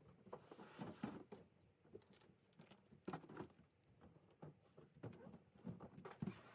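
Household items being handled and packed: faint, irregular light knocks, clatters and rustling, several short bursts a second apart.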